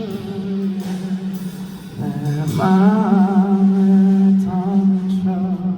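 Male singer holding long wordless notes with vibrato over soft accompaniment, with a brief break about two seconds in, at the close of a live ballad.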